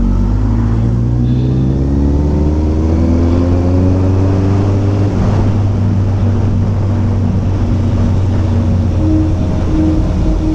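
Kawasaki ZX14R inline-four motorcycle engine pulling hard, its pitch rising steadily over the first five seconds, then running at a steady pitch under a rushing noise.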